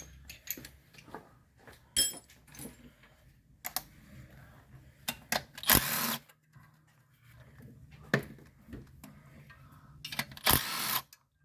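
Hand tools working on engine bolts: scattered metal clicks and knocks, a ringing clink of metal on metal about two seconds in, and two short rattling bursts, one near the middle and one near the end, typical of a socket ratchet being worked.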